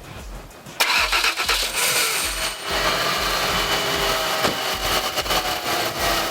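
Car engine being started cold: the starter cranks for about two seconds from about a second in, then the engine catches and runs steadily, its pitch easing down slightly near the end as it settles toward idle.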